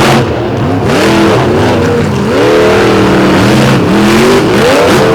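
Monster truck engines revving hard through a race run, their pitch rising and falling repeatedly as the drivers work the throttle through the turns.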